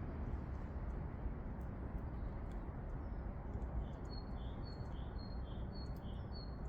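Great tit singing a repeated two-note phrase, a high note then a lower one, several times in quick succession in the second half, over a steady low outdoor rumble.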